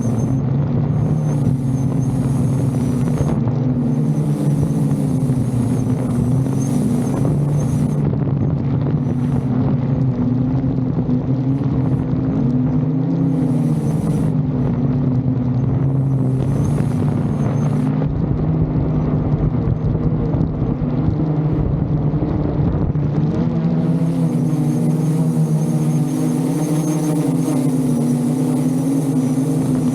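VTOL drone's propellers humming steadily, their pitch wavering up and down as the motors work against gusts, with wind rumbling on the microphone.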